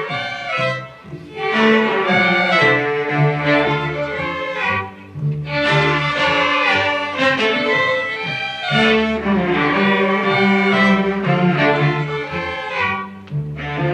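High school string orchestra playing, with bowed violins and cellos over double basses. The notes are sustained and come in phrases, with short breaks in the sound about one, five and thirteen seconds in.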